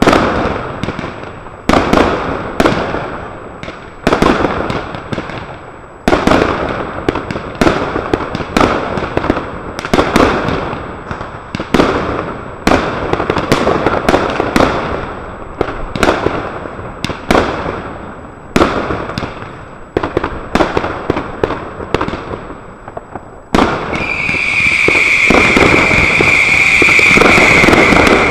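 Consumer firework cakes (multi-shot batteries) firing in quick succession, each shot a sharp bang trailing off into crackle. About 24 seconds in, a loud continuous hiss with a steady high whistle takes over.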